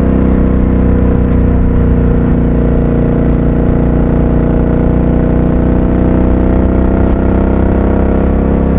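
Triumph Speed Twin 1200's 1200 cc 270-degree parallel-twin engine running under way at a fairly steady speed, its note dipping slightly and then slowly rising.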